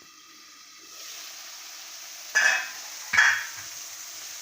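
Tomato-onion masala sizzling in hot oil in a pan, the paste fried down to the stage where the oil separates. Two short, loud scrapes of a spoon stirring it come a little under a second apart, about halfway through.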